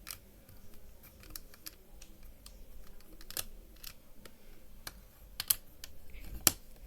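Light, irregular clicks and taps of plastic LEGO pieces being handled, with two sharper clicks about five and a half and six and a half seconds in.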